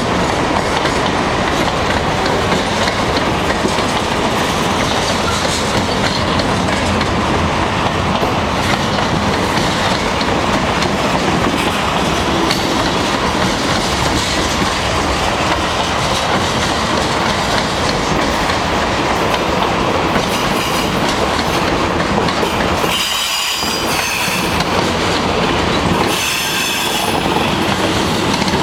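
Lumber-laden flatcars of a CN freight train rolling past: a loud, steady rumble and rattle of steel wheels on rail. High-pitched wheel squeal rings out twice near the end.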